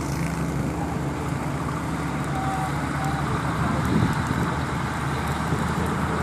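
Steady engine and road noise of a moving vehicle, a constant low hum under an even rushing noise.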